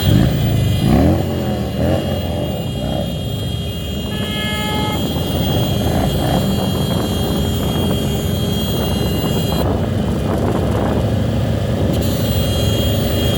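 Engines of a large group of motorcycles and cars riding together, with one engine revving up near the start. A vehicle horn sounds once for about a second, about four seconds in.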